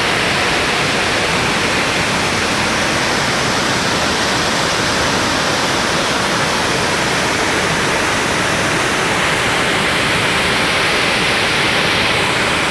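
Tsuta no Fuchi waterfall pouring with a steady, loud rush of water, the river swollen with rain from the previous day's typhoon.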